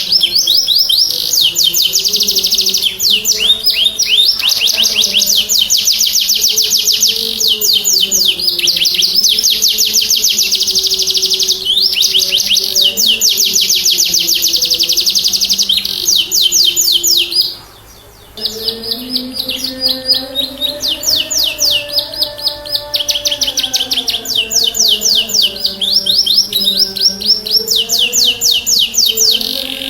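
Domestic canary singing loudly and without pause, in long runs of fast, rapid trills and rolls, with faint background music beneath. The song breaks off for under a second a little past halfway, then resumes.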